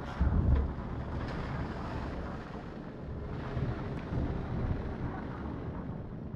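Strong wind of an approaching thunderstorm, buffeting the microphone with low rumbling gusts, the loudest gust about half a second in.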